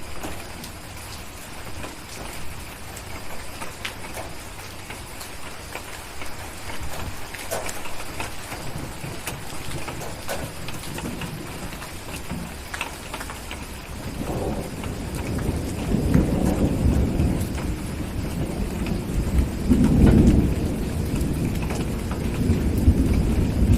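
Steady rain with scattered small ticks, then a long rumble of thunder that builds about halfway through, swells twice and is still rolling at the end.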